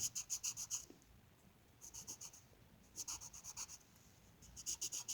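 Colouring on paper: quick back-and-forth scribbling strokes, about seven or eight a second, in four short spells with brief pauses between.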